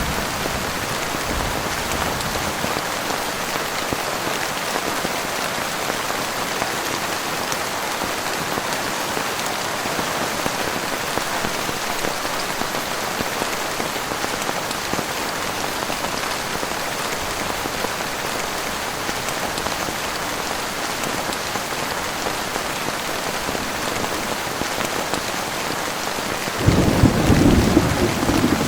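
Heavy rain falling steadily, with a low rumble of thunder near the end lasting about two seconds.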